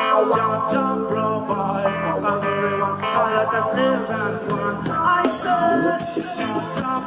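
Live reggae band playing a song, with guitar among the instruments.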